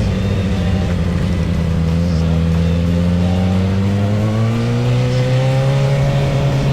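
Kawasaki Ninja ZX-6R's inline-four engine running under way, its note rising slowly as the bike accelerates in gear.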